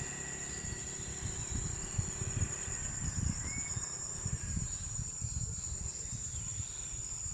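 Insects droning in one steady high pitch, over an uneven low rumble.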